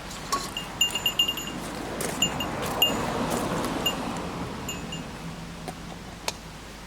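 Light metallic jingling: small, bright, bell-like pings in quick clusters during the first three seconds, over rustling that swells in the middle, with a single sharp click near the end.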